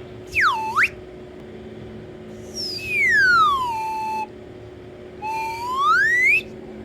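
A whistling sound effect in three swoops: a quick dip and rise in pitch near the start, a long slide down that settles on a low note in the middle, and a slide back up near the end.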